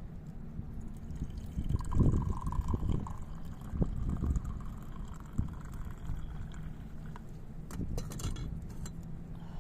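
Liquid pouring into a container, its pitch rising slightly as it fills, over a steady low wind rumble, with a few sharp clicks near the end.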